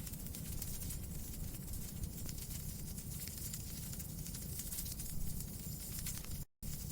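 Steady outdoor noise: a low rumble and hiss with many faint crackles. It cuts out completely for a moment near the end.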